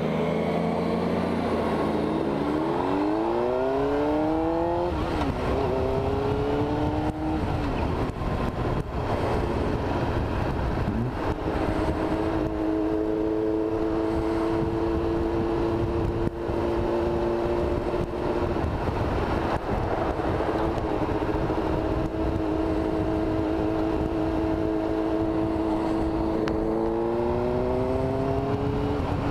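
Motorcycle engine pulling through the gears: its pitch climbs and drops back twice in the first several seconds as it upshifts, then holds steady at cruise, and climbs again near the end. A steady rush of wind noise runs underneath.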